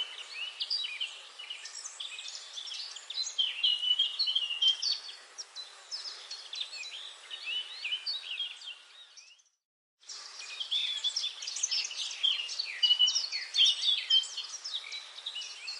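Dense forest chorus of many songbirds chirping and trilling over each other, over a faint steady hiss. About nine seconds in it fades out to silence for under a second, then the chorus comes straight back.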